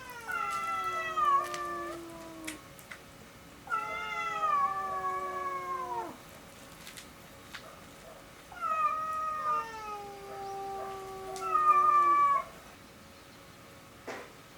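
A domestic cat meowing in three long, drawn-out calls, each sliding down in pitch; the last call is the longest and loudest.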